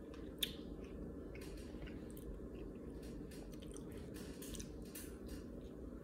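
A person chewing a mouthful of hamburger, with short irregular mouth clicks and a sharper click about half a second in.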